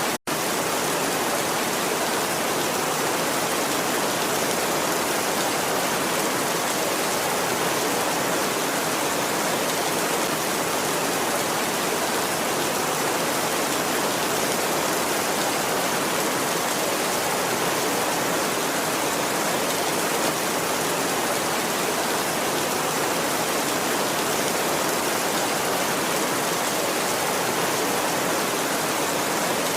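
Heavy rain falling steadily on a tin roof, an even, unbroken hiss. The sound cuts out for an instant just after the start.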